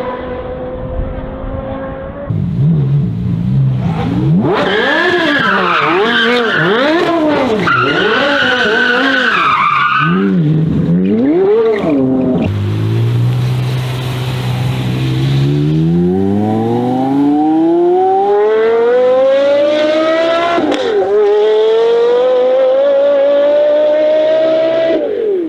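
Porsche Carrera GT's 5.7-litre naturally aspirated V10 revving up and down in quick blips, then pulling hard in one long rising sweep. A sudden drop in pitch marks an upshift, and the engine climbs again.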